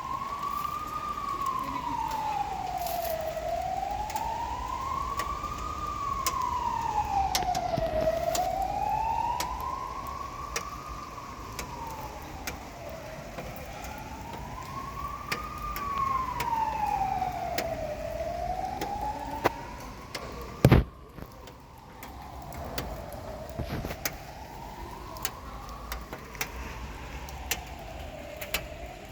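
A siren wailing, its pitch slowly rising and falling about every four to five seconds, with scattered clicks and one sharp knock about two-thirds of the way through.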